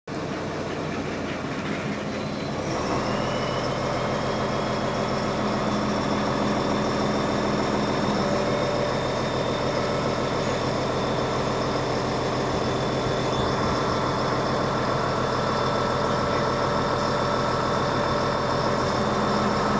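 A motor running steadily, with several steady whining tones above its drone; it gets a little louder about three seconds in.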